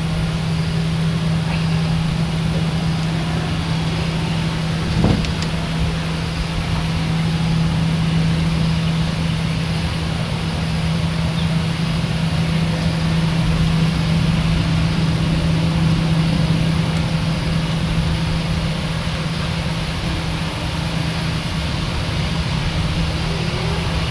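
A steady engine drone with a constant low hum that does not change in pitch, and a single sharp click about five seconds in.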